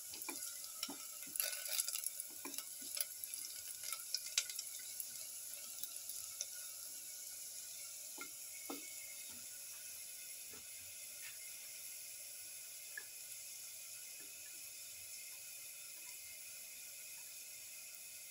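Shallots frying in shallow oil in a pan: a steady sizzle. A plastic spatula stirring them scrapes and taps against the pan many times in the first few seconds, then only now and then.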